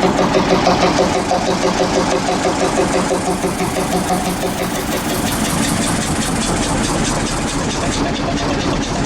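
Engine of a small locomotive (the 'Locofox') running with a regular pulsing beat of about four a second, which becomes less marked after about three seconds.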